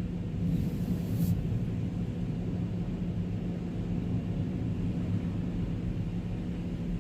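Truck cab heater fan blowing: a steady low hum and rumble heard from inside the cab, with a short hiss about a second in.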